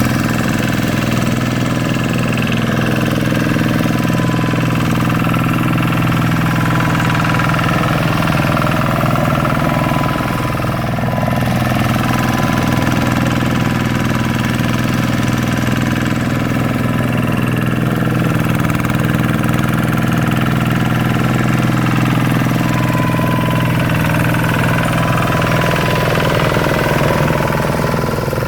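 Single-cylinder diesel engine (Kubota RV125-2) of a two-wheel hand tractor running steadily at an even speed.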